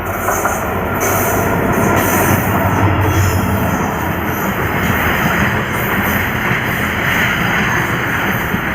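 Indian Railways goods train's wagons rolling on the rails: a loud, steady rumble and rattle of wheels.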